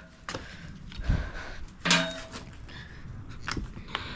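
Scattered knocks and thuds of movement and handling in a workshop, with a dull thud about a second in and a sharp metallic clink about two seconds in.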